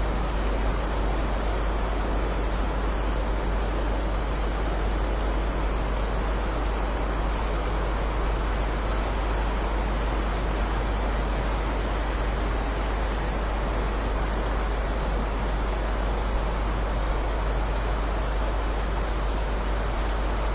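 Steady rainfall, an even hiss with a constant deep rumble underneath.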